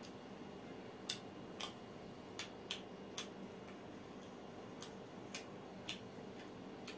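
Mouth sounds of a man chewing grilled mutton sekuwa: about nine short, sharp clicks and smacks at irregular intervals, over a faint steady hum.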